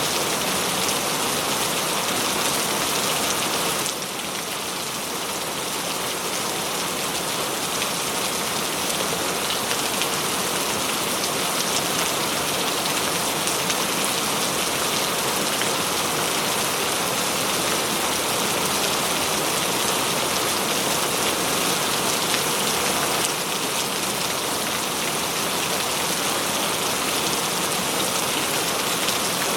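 Steady heavy rain, a dense even hiss of drops falling on surfaces. It eases slightly about four seconds in and builds back over the next few seconds.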